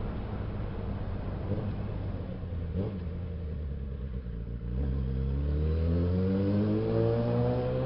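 Suzuki Bandit 650S inline-four motorcycle engine running at a steady speed, then revving up with a rising pitch about five seconds in as the bike accelerates.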